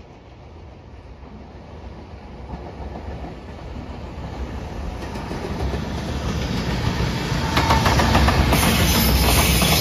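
JR Freight EF210 'Momotaro' electric locomotive hauling a container freight train approaches and passes, its rumble growing steadily louder. As it draws level near the end, the wheels clack rapidly over the rail joints.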